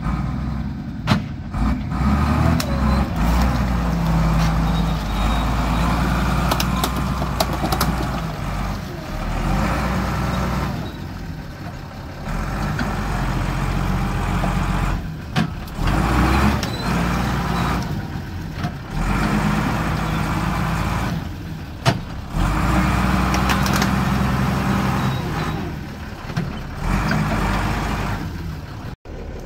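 Vehicle engine working hard in stretches, pulling strongly and then easing off several times, with a few sharp knocks over it.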